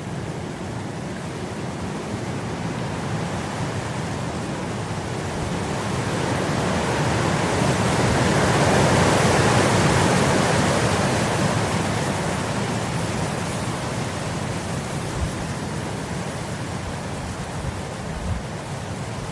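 Wind blowing across grass: a steady rushing that swells into a stronger gust about halfway through, then eases off again.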